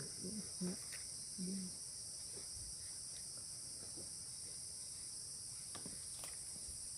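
Steady high-pitched insect chorus, with a few soft murmured sounds from a person in the first two seconds and faint clicks now and then.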